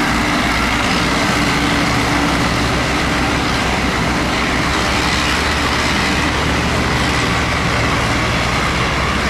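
Tractor engine running steadily, with a low, rapid throb and no clear change in pace.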